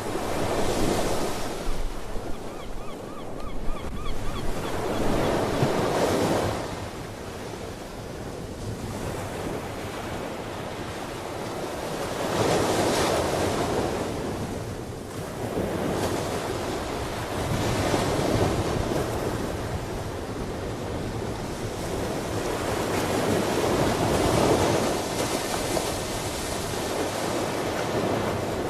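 Ocean waves washing in and receding, the surf rising and falling in slow surges about every five to six seconds.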